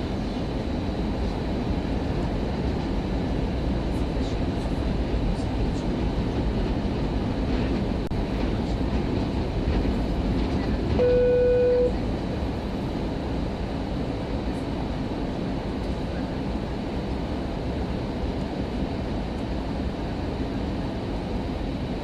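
Steady low cabin rumble inside an Airbus A319 airliner. Just past halfway, a single steady tone lasts about a second and stops abruptly.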